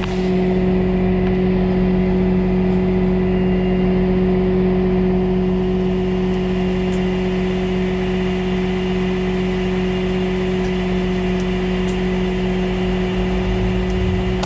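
Vehicle engine running steadily, its hum holding one even pitch throughout.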